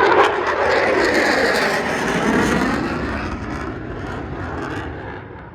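Thunderbirds F-16 Fighting Falcon jet passing in full afterburner. A loud rushing jet noise, loudest at first, fades steadily as the jet moves away.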